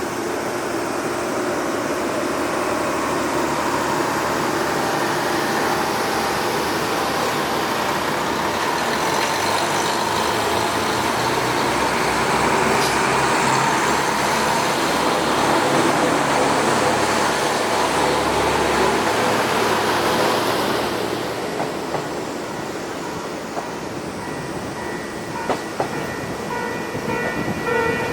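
Running noise heard inside a locomotive-hauled passenger coach: a steady rumble of wheels on rail that grows louder toward the middle and drops off about 21 seconds in. A few sharp clicks come near the end.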